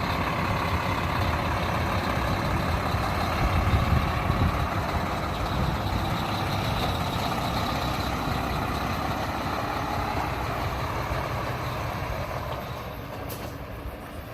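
A semi truck's diesel engine running loudly and steadily as the tractor manoeuvres to back up to its trailer, growing quieter near the end.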